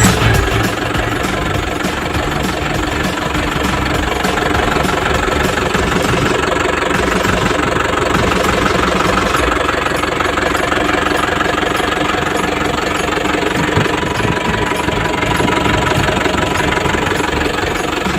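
Komatsu HB205-1 hybrid crawler excavator's diesel engine running steadily at idle with a knocking diesel clatter.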